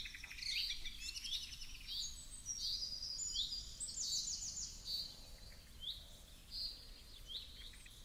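Songbirds chirping and singing: short high notes repeating about once a second, with a quick trill about four seconds in.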